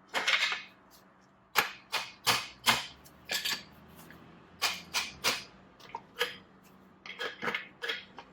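A series of sharp metallic clicks and taps, irregularly spaced, a few a second, from hand tools working on metal engine parts.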